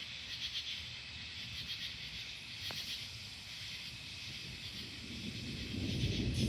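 Night insects, crickets, chirping steadily in a fast pulsing trill. A low rumble builds about five seconds in and is loudest near the end.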